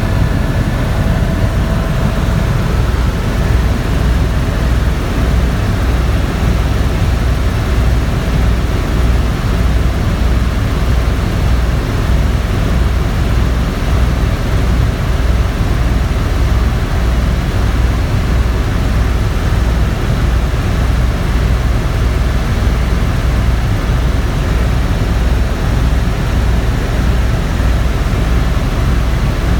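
Tour helicopter in flight: a steady, loud low rumble of the rotor and engine with an even, rapid beat from the rotor blades.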